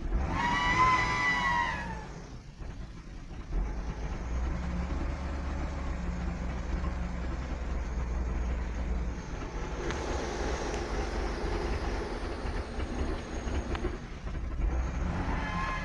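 Hyundai Tucson's 2.7 L V6 running unsteadily on a raised idle with the throttle held by foot after a cold start, the revs shifting partway through. A high squeal that rises and falls sounds over it during the first two seconds and again near the end: a foreign whistle that the owner traces to the throttle body area.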